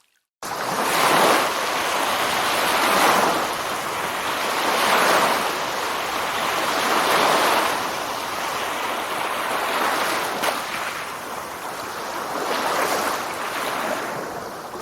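Ocean waves washing in, a rushing noise that swells and eases about every two seconds, starting suddenly about half a second in.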